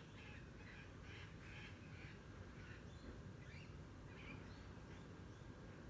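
Faint bird calls: a run of quick, evenly repeated calls, about three a second, that stops a couple of seconds in, then a few scattered chirps and short rising notes.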